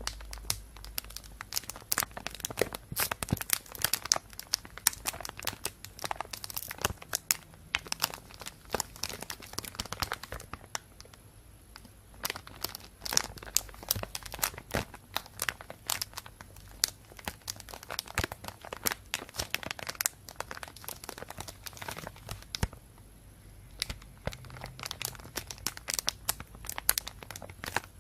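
Thin plastic bag crinkling and rustling in dense, irregular crackles, with two brief quieter lulls.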